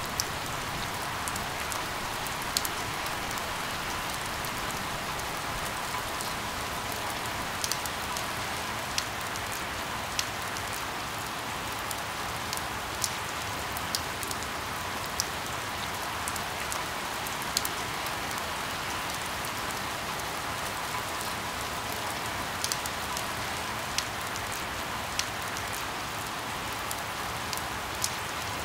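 Steady rain falling on a surface, with sharp, louder drop taps landing close by about every second or so.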